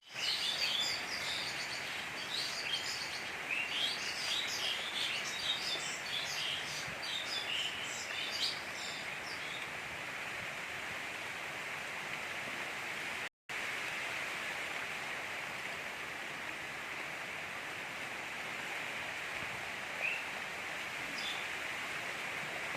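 Steady hiss of gentle rain, with birds chirping over it for roughly the first nine seconds and briefly again near the end. The sound cuts out for an instant about halfway.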